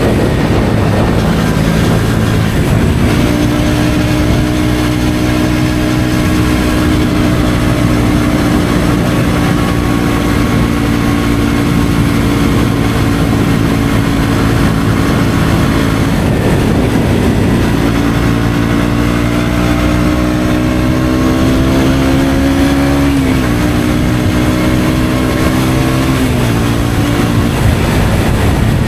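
KTM Duke 125's single-cylinder four-stroke engine through an Akrapovic exhaust, pulling steadily on the move. It climbs in pitch under acceleration, then drops sharply at a gear change about 23 seconds in and again about three seconds later.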